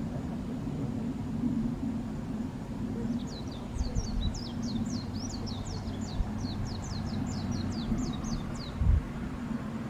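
A low, steady hum, likely the ship's or tugboat's engines. A small bird sings a rapid run of short, high, falling notes, about four a second, for roughly five seconds starting about three seconds in. Near the end there is a single dull thump.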